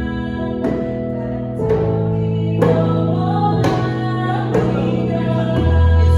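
Slow Korean praise song sung by a woman, with piano accompaniment and a djembe, a struck beat about once a second under held chords. A deeper bass note comes in near the end.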